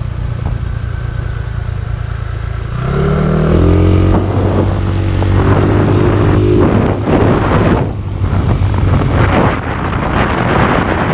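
Motorcycle engine running under way with wind on the microphone. About three seconds in the engine revs up to a higher, steady drone; from about seven seconds wind buffeting takes over.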